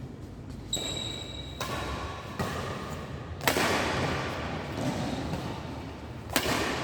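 Badminton rally: several sharp racket hits on the shuttlecock, the loudest about halfway through and another near the end, each echoing in the hall. A brief high squeak comes about a second in.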